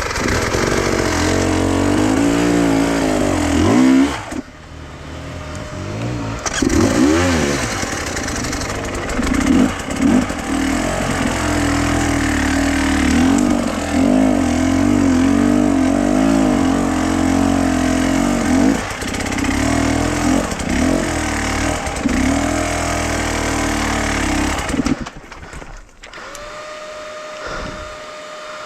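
A vehicle engine running under changing throttle, its pitch repeatedly rising and falling as it is driven. It drops away near the end, and a steady tone follows.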